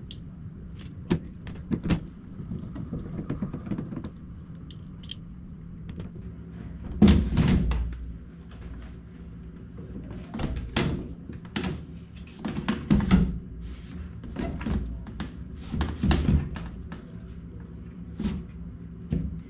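A series of irregular thunks and knocks, several seconds apart, over a steady low hum.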